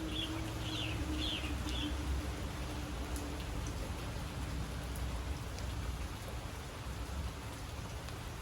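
Steady rain falling, with scattered drops tapping. A bird gives a quick series of short chirps in the first two seconds.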